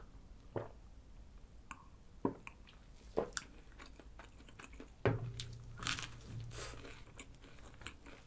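Mouth sounds of someone chewing and biting a fried chicken burger with a breaded patty, a McSpicy Creamy Onion, heard as a few separate crunches. The loudest crunch comes about five seconds in. The patty's crust is crispy to the point of being a little hard, and the meat is dry.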